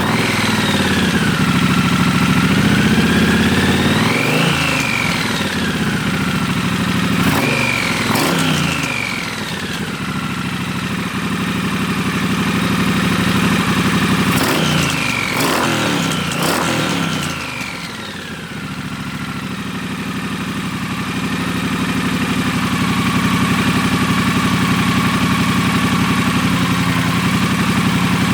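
Triumph Bonneville Bobber Black's 1200 cc parallel-twin engine running through a freshly fitted Motone aftermarket exhaust. It is blipped up and down several times, in short revs about four seconds in, around eight seconds and a cluster of three near the middle, then settles to a steady idle.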